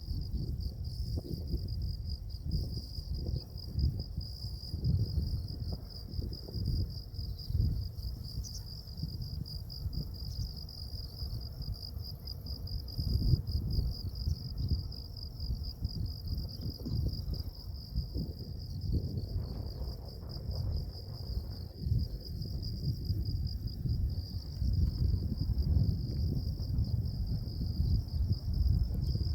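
Insects trilling steadily in a high, fast-pulsing chorus, over wind rumbling on the microphone.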